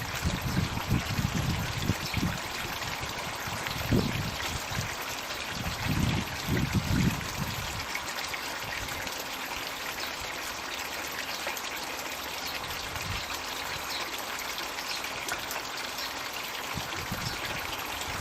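Floating "magic bucket" pond water feature running, water pouring and trickling steadily into the pond. Uneven low rumbles come and go in the first half, then only the steady trickle remains.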